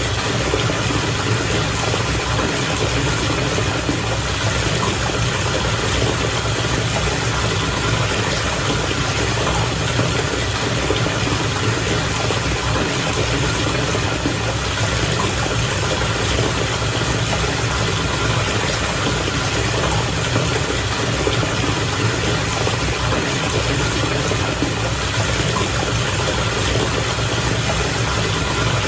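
Bath water bubbling steadily over a continuous low rumble, unchanging throughout.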